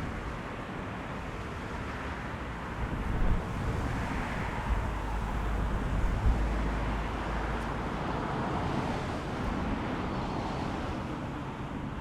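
Strong wind gusting on an action camera's microphone, low buffeting rumbles about three seconds in and again for a couple of seconds in the middle, over a steady outdoor rushing noise.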